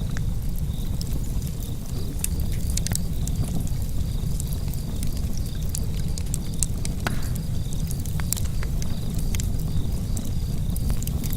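Wood fire burning in a fireplace: irregular sharp crackles and pops over a steady low rumble of the flames, with one stronger pop about two-thirds of the way through.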